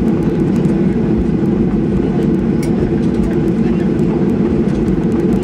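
Steady hum inside the cabin of a Boeing 737-800 on the ground after landing, with faint passenger chatter.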